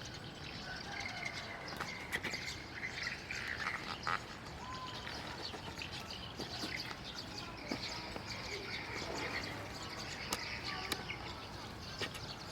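Birds chirping and twittering in short scattered calls over steady outdoor background noise, with a few faint clicks.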